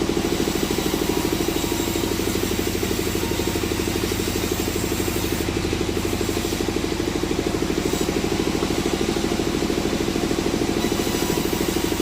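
An engine running steadily at idle with a fast, even pulse and no change in speed.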